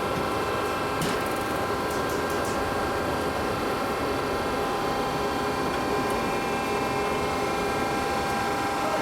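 Machinery running steadily: a constant whine of several held tones over a dense mechanical rattle, with a few sharp ticks between one and two and a half seconds in.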